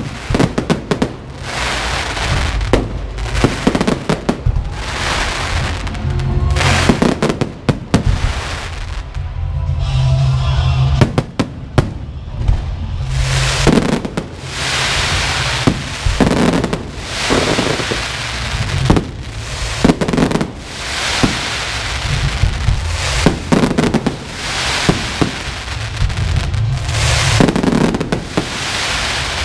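Fireworks and firecrackers going off in a continuous barrage: rapid crackling, with heavier bangs every second or two, over music.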